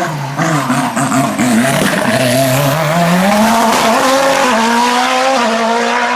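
Hill-climb race car engine running hard, its note wavering for the first couple of seconds, then climbing steadily and holding a high pitch.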